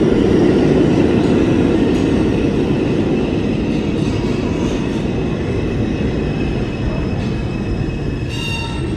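Subway train running: a loud, steady rumble of wheels on track inside the car, with high squealing tones starting near the end.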